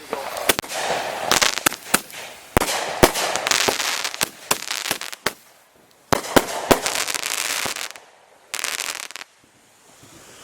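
Consumer multi-shot firework pack going off: a rapid string of sharp bangs and pops, each with a fizzing hiss, in several quick volleys with short gaps between them, ending in a brief hiss about nine seconds in.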